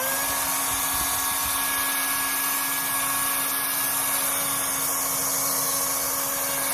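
Toro chainsaw running at full speed with a steady whine while cutting down a bush.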